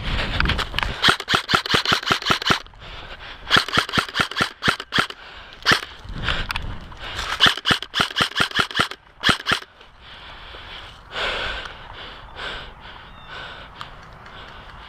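Airsoft guns firing in rapid bursts of sharp clicks, several bursts over the first ten seconds or so, then only scattered single shots.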